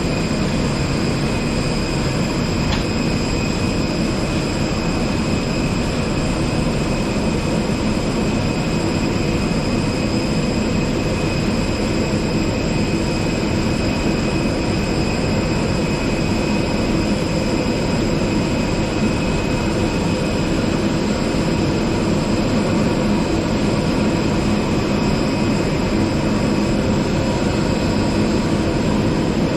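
Steady aircraft turbine noise from a parked Airbus A320-200: a constant high whine over a low rumble, unchanging throughout.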